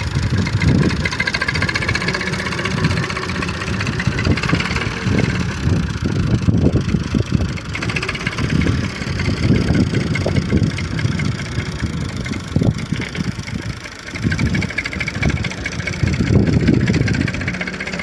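Tractor engine running hard, its level rising and falling.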